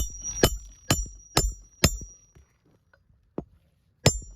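Hammer striking the steel roof snake to drive a roofing nail under a shingle: five quick blows about two a second, each with a short metallic ring, then a pause and the blows start again near the end.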